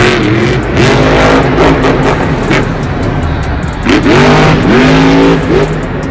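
Monster truck supercharged V8 engines revving: the engine note rises sharply and holds about a second in, and again more loudly from about four seconds in.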